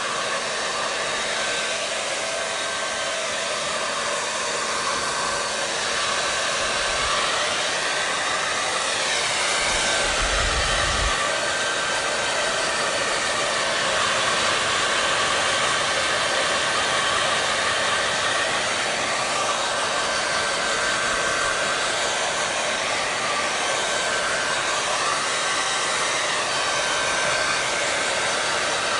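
Hair dryer running steadily, a continuous rushing of air with a faint steady whine.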